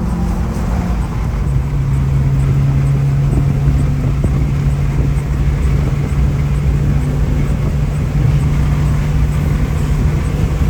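Car engine running at a steady speed, a constant low drone that settles onto one held note about a second and a half in.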